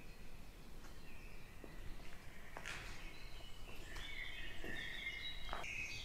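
Birds chirping and warbling in the surrounding woods, busiest in the second half, over a low outdoor rumble, with a couple of faint knocks.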